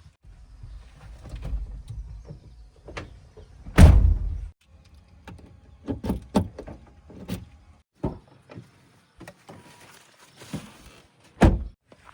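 A series of irregular thuds and knocks, the heaviest about four seconds in and another sharp one near the end, over a faint low rumble in the first few seconds.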